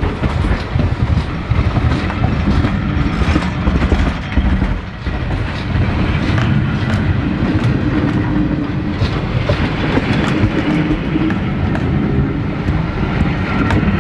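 Steam-hauled train running past: a steady heavy rumble of wheels and carriages, with a continual run of sharp clicks from the wheels on the track.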